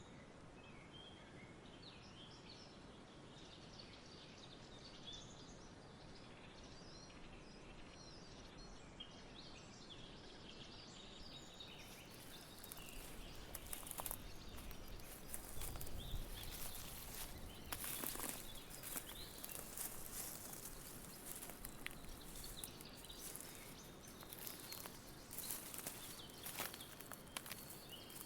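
Outdoor autumn nature ambience: small birds chirping lightly over a steady soft hiss, then about halfway through a dense rustling and crackling sets in, like dry leaves stirred by gusts of wind.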